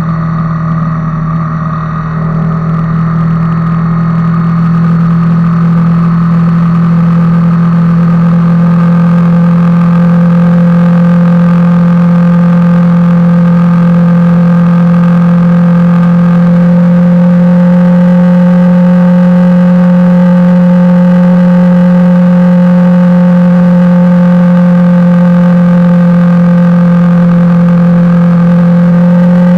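Honda CBR250R's single-cylinder engine running at a steady cruising pace. It grows louder over the first few seconds, and its pitch edges up slightly about halfway through.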